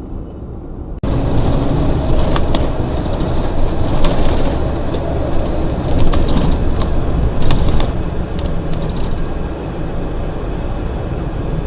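Loud car driving noise recorded by a dashcam: dense road and engine rumble with scattered sharp knocks and clicks. It jumps in suddenly about a second in at a cut.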